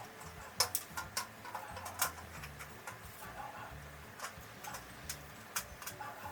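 Irregular clicks and light taps of plastic and metal ceiling-light fitting parts being handled and fitted.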